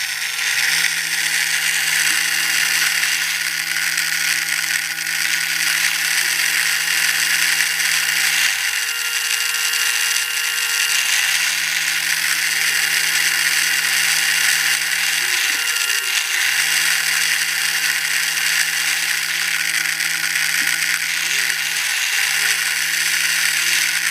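Small electric motor and gear train of a toy radio-control tank's escapement unit running with a steady mechanical whir and gear buzz. Its hum sags in pitch and picks up again several times as the escapement steps.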